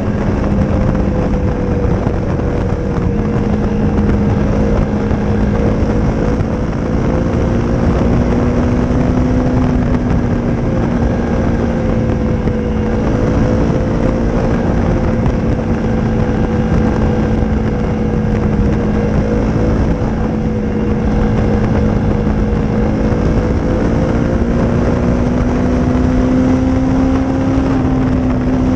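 Honda CRF250's single-cylinder four-stroke engine through a Leo Vince aftermarket exhaust, running at a steady pitch on the move that rises and dips only slightly. A dense low rumble lies beneath it.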